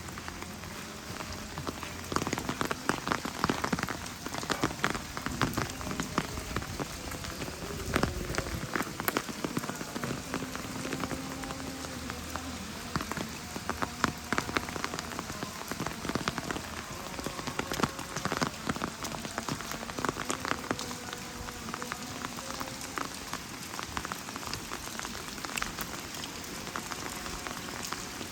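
Steady rain falling, with frequent sharp clicks and ticks of drops throughout.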